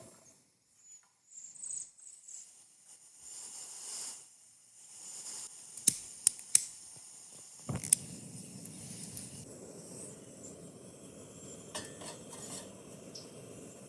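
Light clinking of a pot and cooking gear. Then come several sharp clicks, and about eight seconds in a camp stove burner lights and runs with a steady rush to heat water for boiling.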